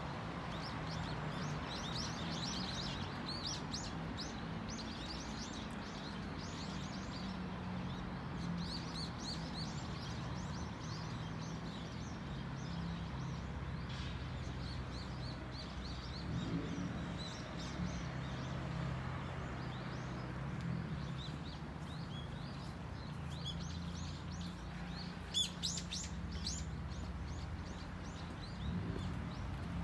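Small birds chirping repeatedly in short high calls, busiest just after halfway, over a steady low hum.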